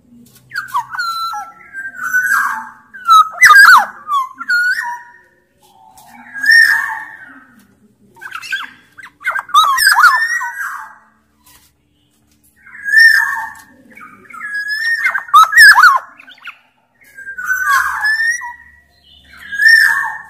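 Black-naped oriole (kepodang, Sumbawa bird) singing in full voice: bouts of fluty, bending whistled phrases mixed with harsher notes, about six bursts separated by short pauses.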